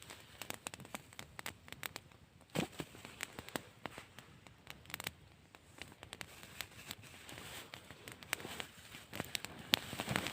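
Irregular crackling, with scattered sharp pops and clicks and no steady rhythm.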